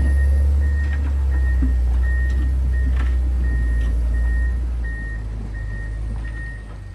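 John Deere 670 motor grader's diesel engine running with a low drone while its reversing alarm beeps steadily, about three beeps every two seconds. The engine sound eases off about five seconds in.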